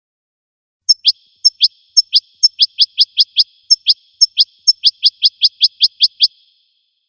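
Goldfinch calling: a fast, even series of about eighteen short notes, each a sharp high tick followed by a quick rising chirp, starting about a second in and stopping abruptly near the end.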